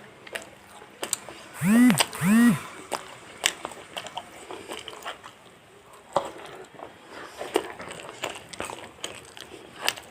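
Close-miked eating of fried chicken: small crisp bites and wet chewing clicks throughout, with two short hummed vocal sounds, each rising then falling in pitch, about two seconds in.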